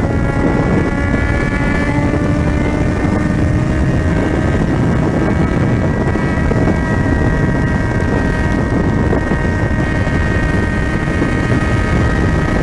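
Yamaha XJ6's 600 cc inline-four running hard at highway speed through an open, straight-pipe exhaust. Its pitch rises gently over the first few seconds, then holds steady, under a heavy rush of wind and road noise.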